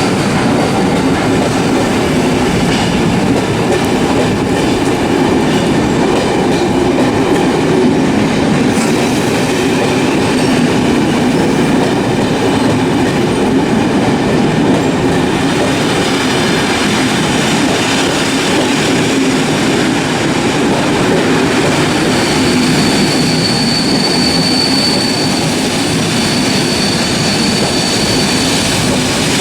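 A train running past close by: a steady loud rumble of wheels on rails with clatter from the coaches. A thin high wheel squeal comes in about two-thirds of the way through.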